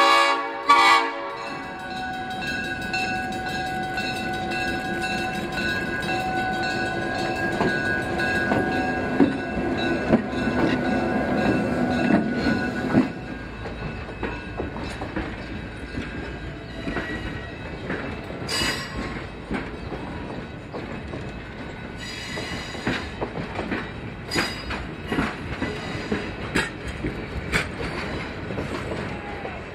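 A locomotive horn sounding and cutting off about a second in, then a train rolling past with the clicking of wheels over rail joints. It is louder for the first thirteen seconds, then quieter.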